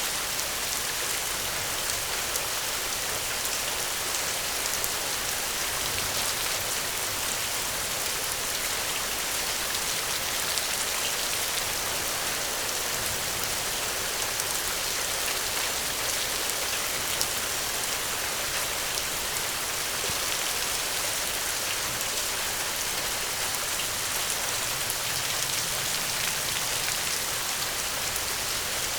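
Steady rain: a dense, even hiss with scattered small ticks of drops.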